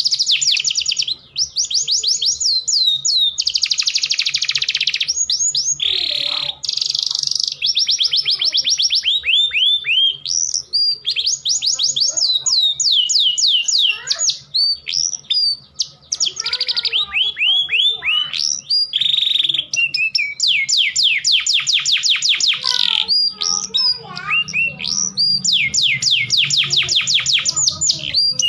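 Domestic canary singing a continuous breeding song: high-pitched trills of rapid, repeated down-sweeping notes in phrases a second or two long with short breaks between them. It is the male song of a bird in breeding condition, used as a lure to bring other canaries into mating condition.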